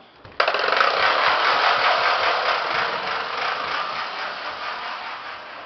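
A child's loud toy truck starts up suddenly and runs with a dense, rattling mechanical noise, fading slowly as it goes.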